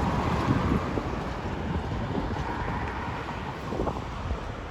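Wind rumbling and buffeting on the microphone, over a steady outdoor noise.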